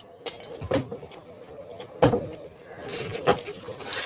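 Eating sounds: a few sharp clicks and knocks of food and utensils being handled, with a stretch of rustling near the end.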